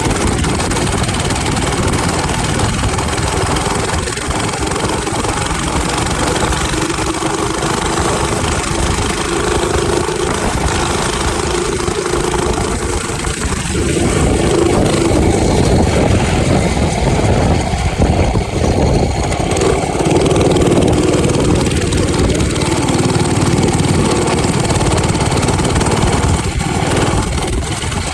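Small minibike engine running, with heavy wind buffeting the microphone. The engine gets louder about halfway through.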